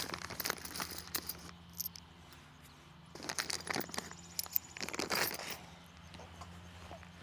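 Small metal hardware clicking and clinking in irregular clusters: nuts and washers being threaded by hand onto carriage bolts through the mount's metal rails and finger-tightened. A faint steady hum runs underneath.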